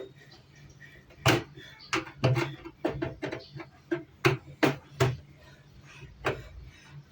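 An irregular series of about a dozen sharp clicks and knocks of hard objects being handled, over a faint low hum.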